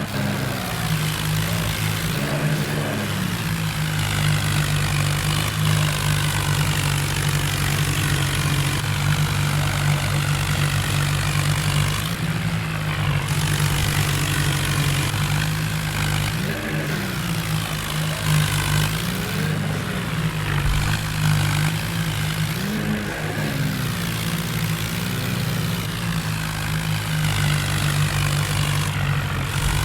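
John Deere tractor's diesel engine running steadily at an even speed.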